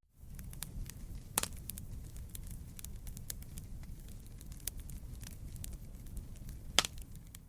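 Wood campfire burning, crackling: a steady low rumble of the flames under a scatter of small snaps, with two louder pops, one about a second and a half in and one near the end. The fire fades in at the start and begins to fade out at the very end.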